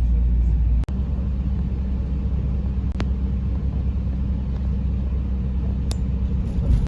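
Steady low rumble of a road vehicle in motion, with a brief dropout about a second in and a couple of faint ticks; it cuts off abruptly at the end.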